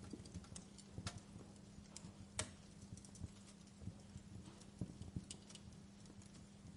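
Wood fire in a fireplace crackling softly: irregular small pops and snaps from the burning logs over a faint low hiss, with a sharper pop about two and a half seconds in.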